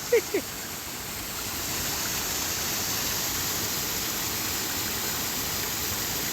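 Small forest waterfall running low, its falling water making a steady rushing noise. A couple of short vocal sounds come right at the start.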